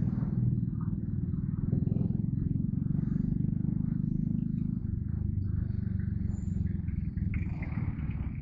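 Yamaha Crypton R's small single-cylinder four-stroke engine running steadily under way, a low pulsing exhaust rumble whose note drops a little about five seconds in.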